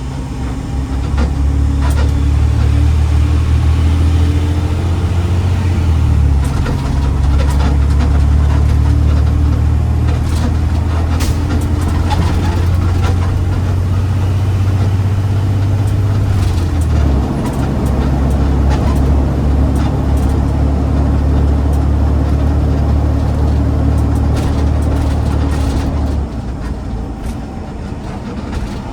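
Garbage truck's diesel engine running as the truck drives, a loud low drone that shifts in pitch about six and seventeen seconds in and eases off near the end, with rattles over it.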